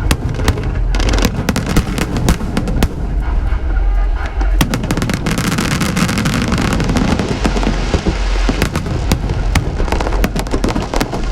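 Aerial fireworks going off in quick succession: a rapid string of sharp bangs and crackles over a constant deep rumble of bursting shells, thickest in crackle about halfway through.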